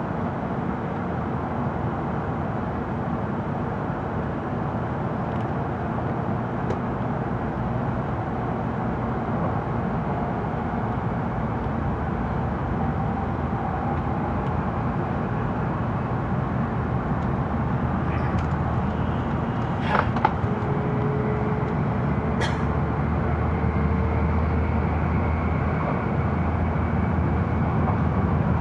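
Steady running noise inside the cabin of an N700-series Shinkansen Green car travelling at speed, with a low rumble that grows gradually louder. Two sharp clicks come about two-thirds of the way through.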